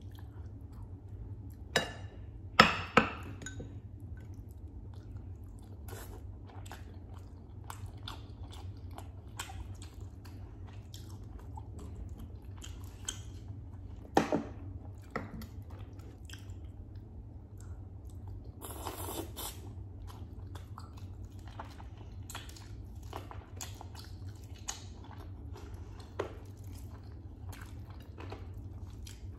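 Close-miked chewing of roast chicken, with wet mouth smacks and short clicks, a few of them sharply louder about two to three seconds in and again near the middle. A steady low hum runs underneath.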